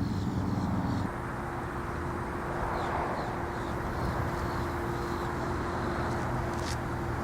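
A motor vehicle's engine running steadily, its low hum shifting about a second in and then holding a steady tone, with faint high chirps over it.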